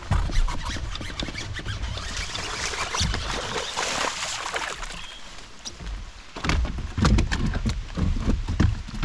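Knocks, clatter and rustling of handling in a plastic fishing kayak, with a wash of splashing water noise in the middle, all muffled and rumbling from rain-soaked water in the microphone.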